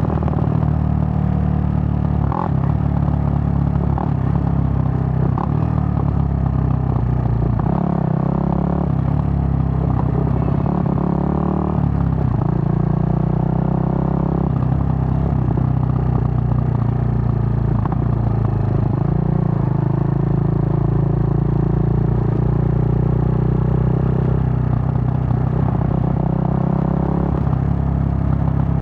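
Suzuki GN125's single-cylinder four-stroke engine running while riding, its pitch stepping and shifting several times with throttle and gear changes.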